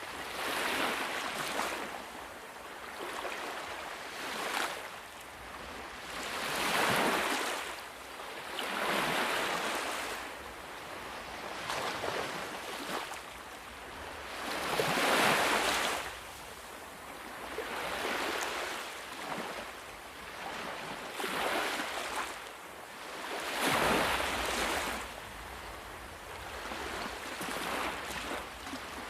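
Ocean waves breaking and washing up a shore, a rushing surge swelling and fading every few seconds. A deeper low rumble comes in near the end.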